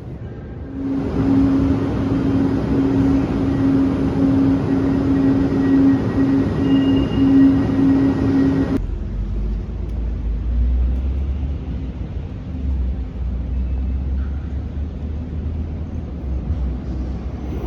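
Metro train noise: a loud rolling rush with a steady, pulsing hum starts just under a second in. It cuts off abruptly about nine seconds in, giving way to a quieter low rumble.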